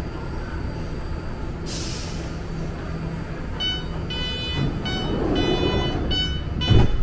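BART train running with a steady low rumble. About two seconds in there is a short hiss, then a high-pitched squeal in several short, uneven bursts, and a loud thump near the end.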